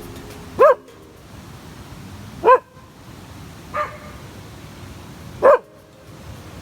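A dog barking: four short barks spread about two seconds apart, the third one fainter.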